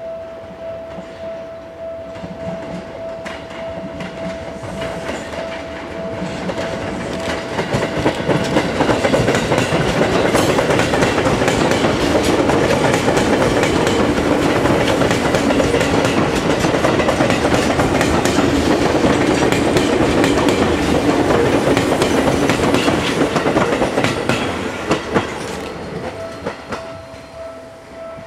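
Seibu 10000 series Red Arrow limited express electric train passing close by, its wheels clicking over the rail joints. It builds to a loud, steady run about a third of the way in and fades near the end. A steady high tone is heard before the train arrives and again as it fades.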